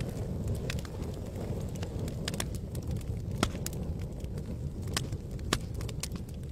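Campfire burning: irregular sharp crackles and pops from the burning wood over a steady low rush, with two louder pops about three and a half and five and a half seconds in.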